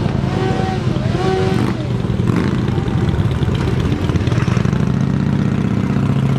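A motor vehicle engine running steadily and loud, a low even hum that grows fuller toward the end.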